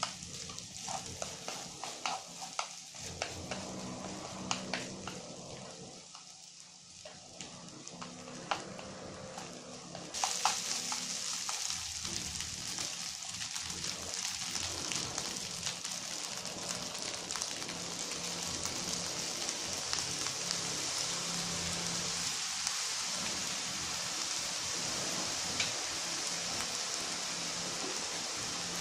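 Rice and scrambled egg sizzling in a frying pan, with chopsticks clicking against the pan as the rice is stirred. About ten seconds in the sound steps up to a louder, steady sizzle with little clicking.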